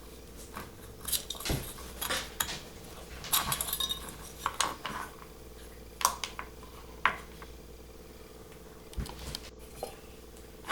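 Small metal parts and tools clinking and rattling as they are handled on a work surface, in scattered short clicks and brief rattles, with a faint steady hum underneath.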